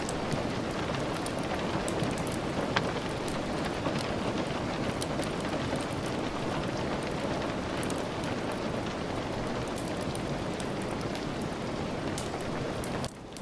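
Steady rain falling, with scattered sharp ticks and pops through it. The overall level drops suddenly just before the end.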